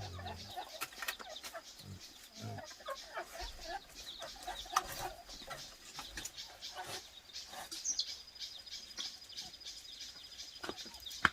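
Chickens clucking, with scattered clicks and taps. A thin, steady, high tone joins in during the last few seconds.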